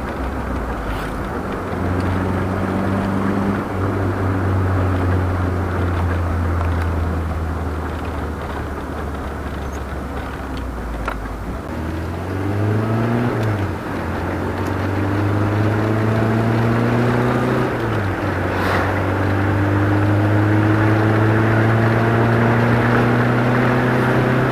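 Toyota 2T four-cylinder engine on twin downdraft carburettors, running steadily at low revs for about half the time, then pulling up through the revs: the pitch climbs, falls back sharply twice as it shifts up a gear, and climbs again each time.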